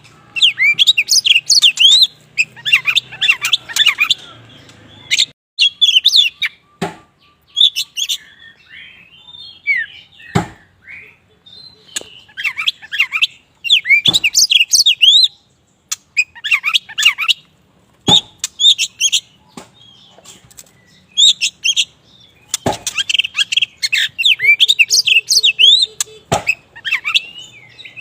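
Black oriental magpie-robin (kacer wulung) singing loudly in repeated bursts of rapid, varied chirps and whistles, broken by short pauses. Sharp knocks come every few seconds.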